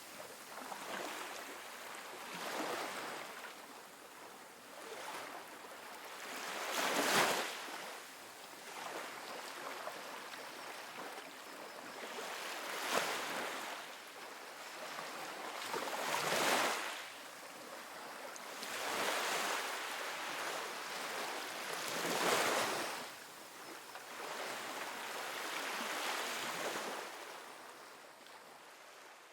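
Calm ocean waves washing onto a sandy beach, each wave swelling into a rush of surf and ebbing, about every three to four seconds. The sound fades out near the end.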